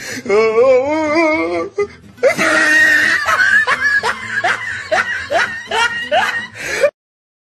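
Laughter over a music track: first a long, wavering laugh, then a fast run of short rising laughs over a held high note. The sound cuts off abruptly about half a second before the end.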